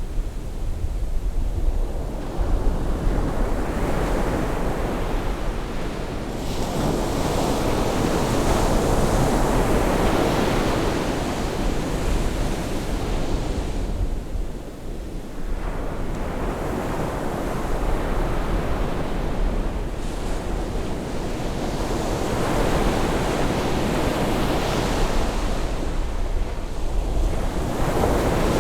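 Sea waves breaking and washing on the shore at rising tide, the surf swelling and ebbing every several seconds, over a steady low rumble of wind on the microphone.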